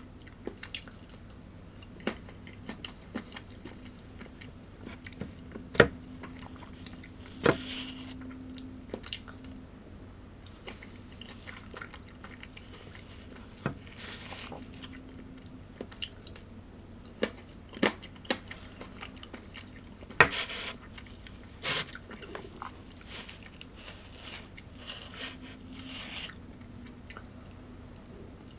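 A person chewing and biting food close to the microphone, with scattered sharp crunches, a few of them much louder than the rest.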